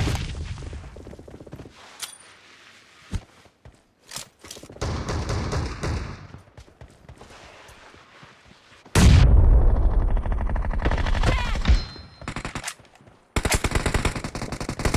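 Video game gunfire: single shots and short spells of firing, then a heavy, booming stretch of sound that lasts a few seconds. Near the end comes rapid, evenly spaced automatic fire.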